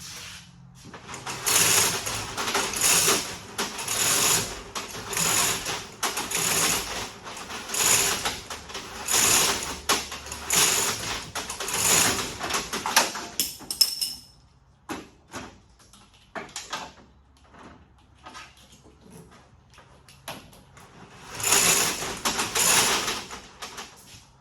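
A tool worked by hand in repeated rasping strokes, about one every second and a half, for some thirteen seconds. Then scattered clicks and knocks, and two more strokes near the end.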